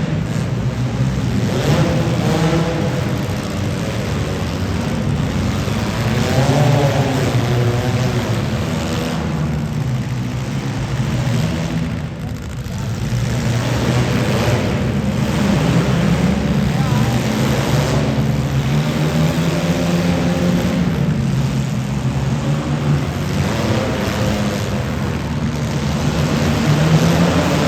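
Demolition derby car engines running and revving, their pitch rising and falling, with a voice faintly underneath.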